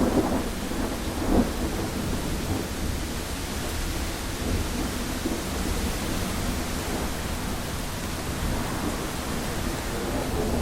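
Heavy rain beating steadily on a window pane, with a low rumble of thunder running underneath. A couple of louder drops hit the glass right at the start and again about a second and a half in.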